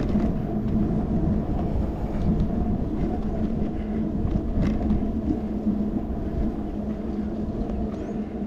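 Steady rumble of wind and tyre noise from a bicycle in motion, picked up by a handlebar-mounted action camera, with a constant low hum and a few faint rattling clicks.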